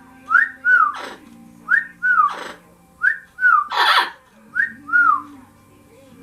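Panama amazon parrot whistling a two-note call, a rising note then a falling one, each time followed by a harsh, noisy squawk; the pattern repeats four times, about once a second and a half.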